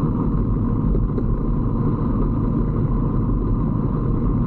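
125cc Brixton motorcycle running steadily while being ridden, its engine mixed with a dense, even rumble of wind and road noise on the microphone.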